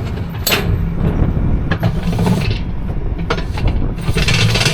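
Tractor engine running steadily while pulling a round baler, with mechanical clatter and a few sharp clicks from the baler working.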